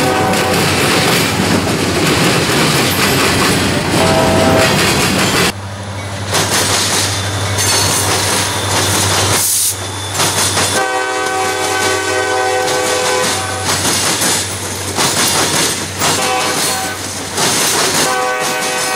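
EMD diesel locomotives in a multi-unit lashup rumbling past at close range, engines under load, with steel wheels clicking over rail joints. A multi-note train horn sounds in long blasts about eleven seconds in and again near the end.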